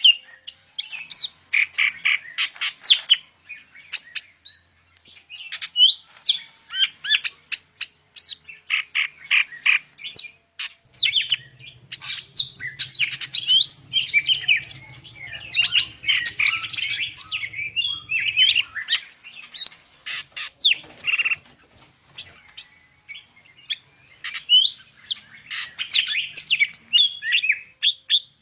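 Greater green leafbird (cucak ijo) singing a fast, almost unbroken stream of varied chirps, slurred whistles and trills. It is a full, 'gacor' song packed with varied phrases ('full isian').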